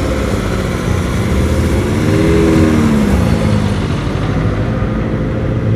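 Car engines running as cars drive by. About two seconds in, one engine note rises and then falls over roughly a second as a car revs or passes.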